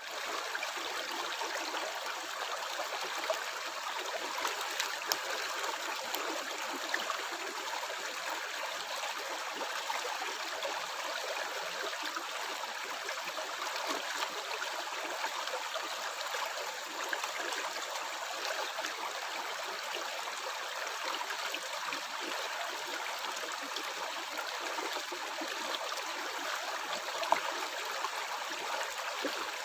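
Water flowing and gurgling steadily without pause, with a few brief, slightly louder pops now and then.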